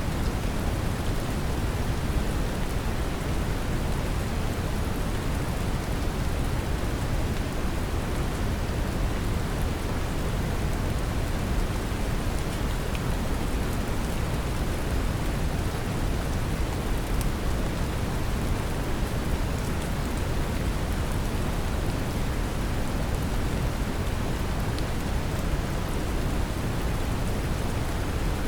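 Steady brown noise, a deep even rushing hiss, mixed with the patter of gentle rain.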